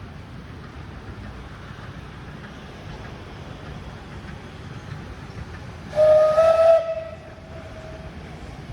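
A railway whistle sounds once, about six seconds in: a short single note a little under a second long, stepping slightly up in pitch, over a steady rumble.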